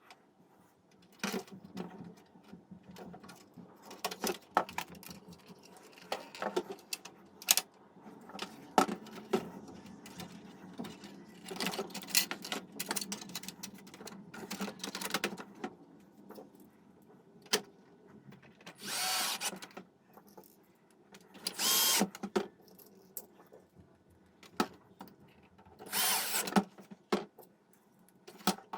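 Scattered clicks and knocks of small parts being handled, with three short bursts of about a second each from a small power tool in the second half.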